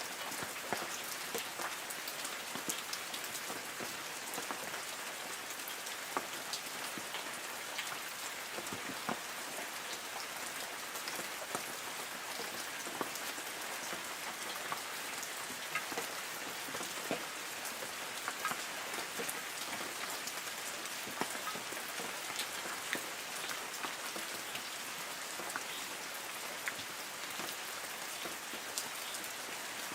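Light rain falling on forest trees: a steady patter with many scattered individual drops ticking on leaves.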